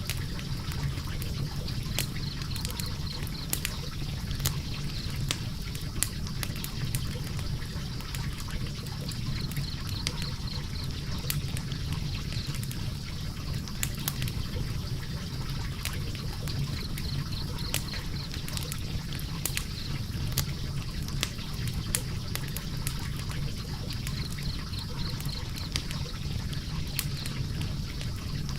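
Logs burning in a fireplace: a steady low rumble of flames, with frequent sharp crackles and pops at irregular intervals.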